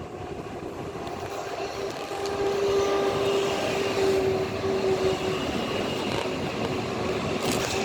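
Train running past on the tracks, growing louder about two seconds in, with a steady whine over the rumble.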